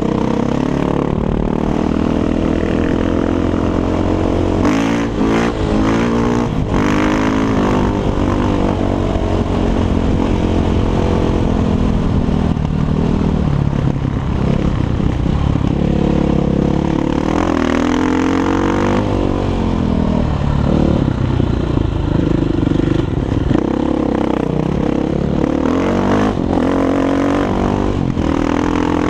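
Six Days 500 enduro motorcycle's single-cylinder four-stroke engine through an Akrapovic exhaust, running under varying throttle. The engine note climbs and drops again and again as it is revved and eased off, with rising runs about 4–7 s, 17–19 s and 26–28 s in.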